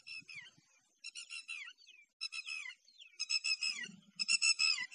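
Small birds singing and chirping in the surrounding scrub, in quick high-pitched phrases of twittering notes and short downward-sliding whistles that come thicker and louder toward the end. A few faint low thuds sound underneath, about a second in and again near the end.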